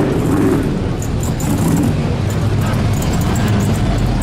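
Car engine running with a steady, deep exhaust rumble as a car drives out.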